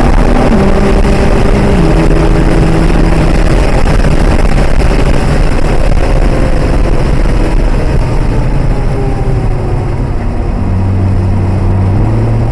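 Nissan GT-R's engine heard from inside the cabin under hard acceleration on track. Its note steps down twice in the first two seconds as the automatic gearbox shifts up, and it then merges into a steady roar of engine, wind and tyre noise. A lower engine note comes in about ten seconds in.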